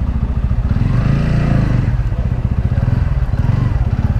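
TVS Ronin 225's single-cylinder engine running at low speed with a rapid, even pulse, its pitch briefly rising and falling about a second in.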